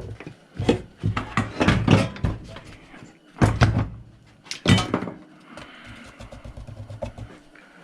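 A run of knocks and clatters from hard tools being handled and set down, with two louder bangs in the middle and lighter clicks toward the end.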